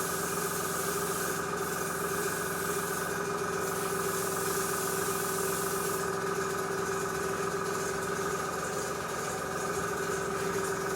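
Small airbrush compressor running steadily with a constant hum, under the hiss of air and paint from the airbrush as it sprays a light dusting coat.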